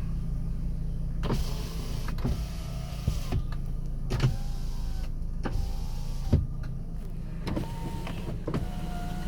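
Car power windows being run up and down several times, each run a steady electric-motor whine ending in a click as the glass stops, over a steady low hum.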